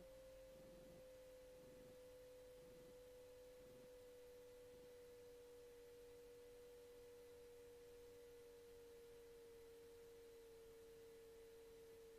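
Near-silent aircraft intercom audio carrying a faint, steady electrical whine whose pitch drifts slowly down.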